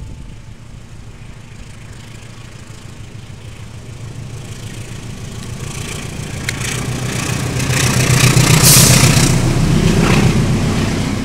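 A diesel locomotive hauling passenger coaches approaches and passes close by. Its engine hum and the wheel-on-rail noise grow steadily louder to a peak about eight to nine seconds in, then ease a little as the coaches roll past.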